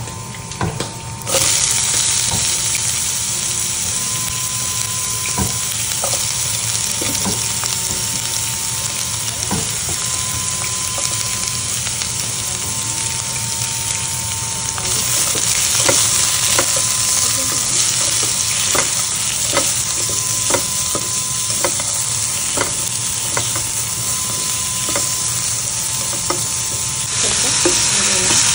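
Garlic and sliced onions sizzling in hot oil in a pan, with a spatula clicking and scraping against the pan as they are stirred. The sizzle gets louder about a second in and again near the end, as ground pork goes in.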